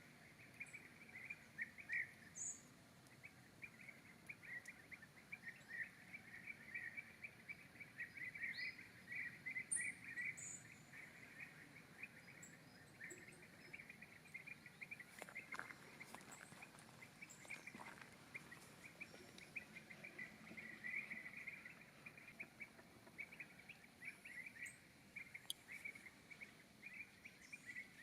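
Faint, continuous insect chorus of rapid chirping pulses, with a few short, high bird calls scattered over it and some faint clicks near the middle.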